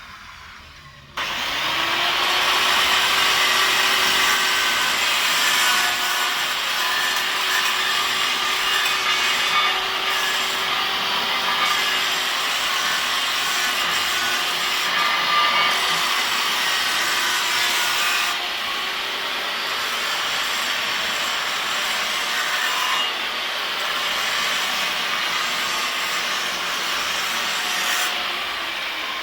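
Angle disc grinder switched on about a second in, its motor spinning up to a steady whine while the disc grinds and cuts with a continuous harsh hiss; near the end it is switched off and winds down.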